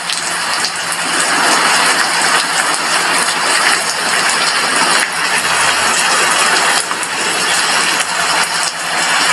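Steady rain, with drops striking a glass window in a dense patter.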